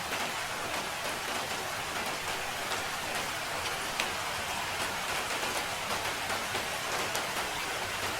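Steady rain falling in an even hiss, with scattered sharp ticks of individual drops striking.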